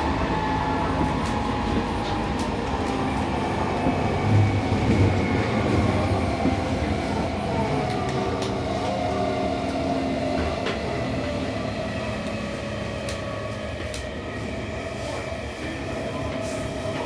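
Inside the motor car of a Seibu 6000-series EMU with a Toshiba IGBT-VVVF inverter: the inverter and traction motors whine over steady wheel and rail rumble, several tones sliding slowly down in pitch as the train runs and slows.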